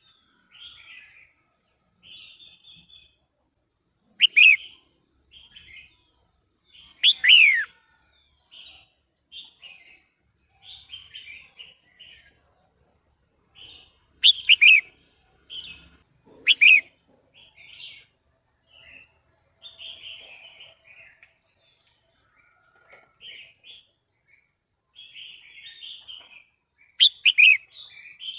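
Female red-whiskered bulbul calling: a run of soft chattering notes, broken by five much louder, sharp calls that each slide down in pitch.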